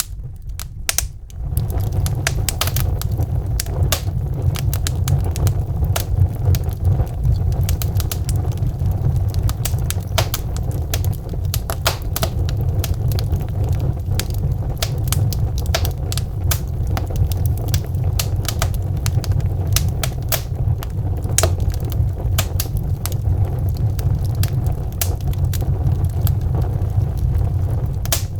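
Wood logs burning in a fireplace, crackling with many irregular sharp pops over a steady low rumble of the flames, which grows louder about a second in.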